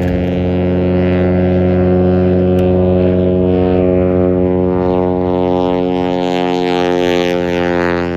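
Light airplane's propeller engine running steadily at one pitch, with a rushing hiss that grows stronger past the middle.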